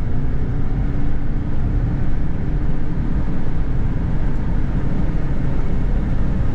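Steady road noise inside a car driving fast on the highway: a continuous low rumble of tyres and engine with a faint steady hum.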